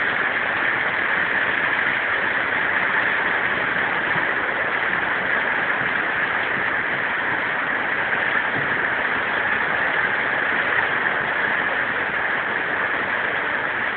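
Heavy thunderstorm rain falling steadily, an even hiss with no breaks.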